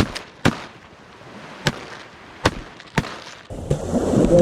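A volley of shotgun shots from several duck hunters: five sharp reports spread over about three seconds. About three and a half seconds in, a steady low rushing rumble comes in.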